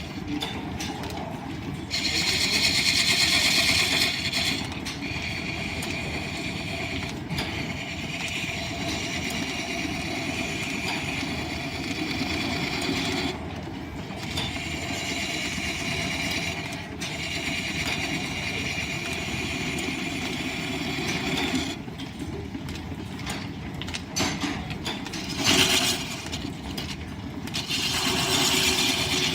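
Line-shaft-driven wood lathe running, its shafting and belts making a steady mechanical rumble, while a turning tool cuts the spinning wood in spells of a few seconds with short breaks between.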